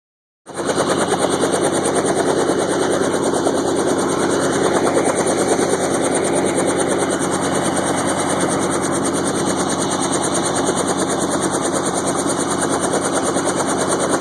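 Helicopter running close by, its rotor and engine making a loud, steady, rapid chop that starts abruptly about half a second in.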